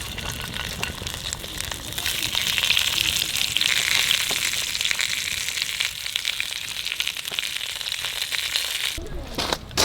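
Food frying in a hot pan, a dense sizzling with fine crackles that grows louder about two seconds in and cuts off abruptly near the end.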